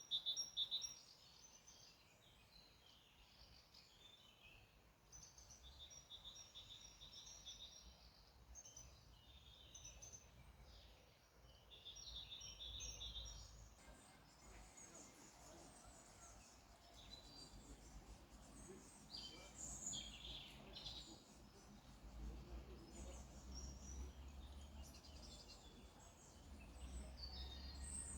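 Songbirds singing faintly, short chirps and a trilled phrase repeating several times, over a low rumble that strengthens in the second half.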